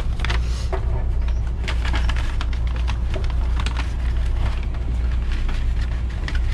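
Steady low hum inside a waiting passenger train carriage, with scattered clicks and rustles of close handling.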